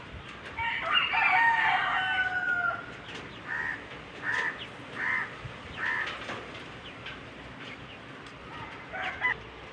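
Rooster crowing once, a long call of about two seconds, followed by a run of about five short clucking calls, roughly one every two-thirds of a second, from chickens in the farm pens.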